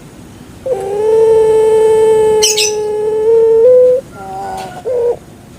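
Puter pelung dove (Barbary dove) calling: one long, deep coo held steady for about three seconds, stepping up slightly in pitch just before it ends, then a few short broken notes.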